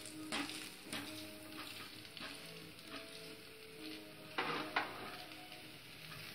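Moong dal chilla batter sizzling in oil on a nonstick tawa, with a wooden spatula scraping and pressing it in several short strokes, the strongest two about four and a half seconds in.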